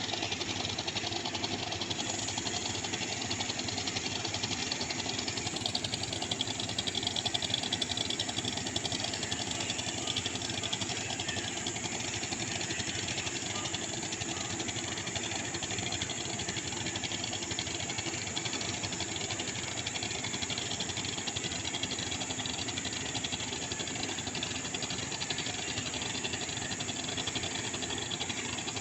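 The motor of a baleinière river boat running steadily under way, with no change in speed.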